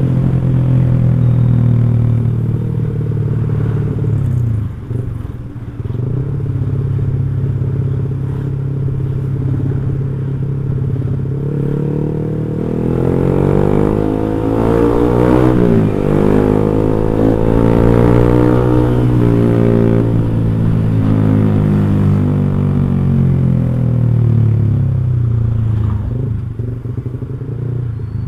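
Motorcycle fitted with an X1 Speed aftermarket racing exhaust, running on the road. The engine note holds steady, dips briefly about five seconds in, rises in pitch as the revs climb in the middle, falls back, and eases off near the end.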